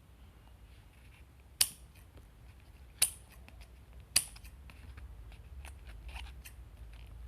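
Scissors cutting paper: three sharp snips, about a second apart, followed by lighter clicks.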